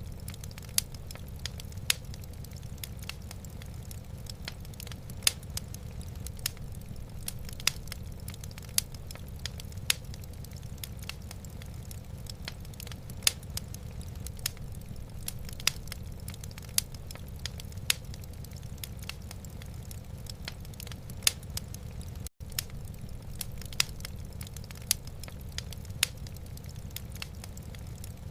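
Wood fire burning in a fireplace: a steady low rumble with sharp, irregular crackles and pops, roughly one or two a second. The sound drops out for an instant about two-thirds of the way through.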